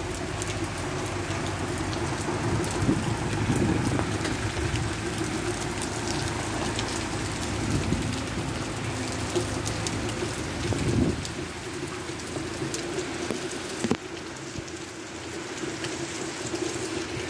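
Rain pouring down steadily: a constant hiss with many small drop ticks.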